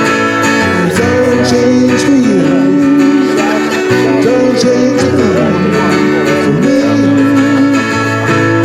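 Live acoustic band playing an instrumental section of a country-rock song: acoustic guitar over a steady bass line, with a melody line that slides between notes.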